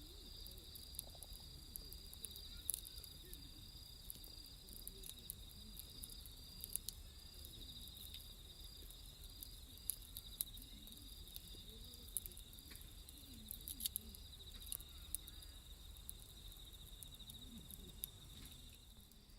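Night insects chirring steadily in two high, close-set tones, with scattered sharp crackles and pops from a wood fire.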